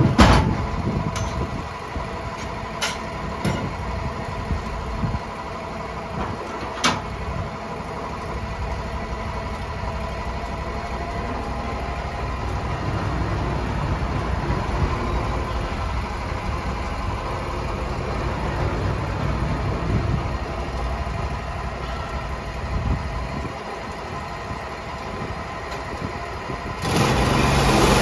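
Sawmill engine running steadily, with a few sharp knocks in the first several seconds. About a second before the end the sound jumps louder and fuller, as if the engine is revved up.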